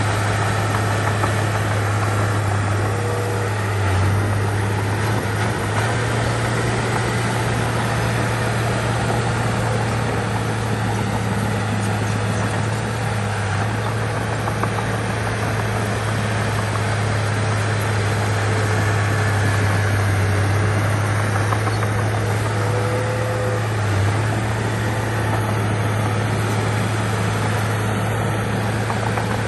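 Heavy diesel engine of earthmoving machinery running steadily with a low, even drone, with no revving or impacts.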